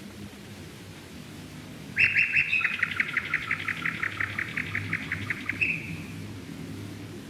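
A songbird sings a fast trill of about twenty quick repeated notes, starting about two seconds in and ending on a short held note, over a low hum.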